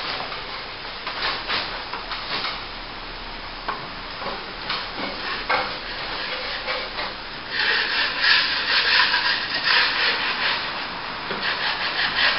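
Steel plastering trowel scraping and swishing over wet top-coat plaster on a plasterboard joint, in repeated strokes. It gets louder and busier for a few seconds past the middle.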